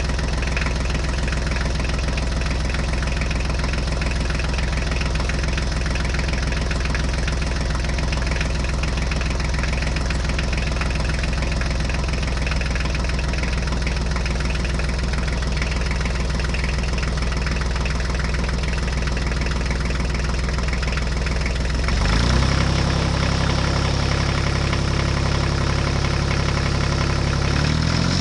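Tractor engine running steadily at low speed, then revving up to a higher, steady speed about three-quarters of the way through.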